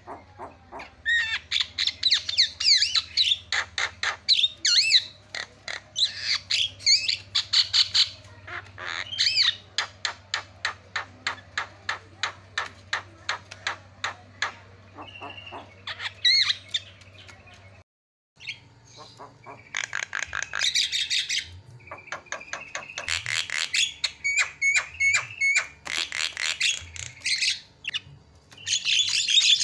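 Javan myna (jalak kebo) chattering loudly: fast runs of harsh squawks and clicks mixed with whistled notes. The calls cut out abruptly for a moment about 18 seconds in, then start again.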